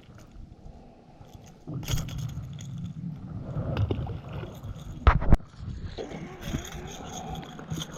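Handling noise in a fishing boat: scraping and rattling of gear against the hull, with a sharp knock about five seconds in.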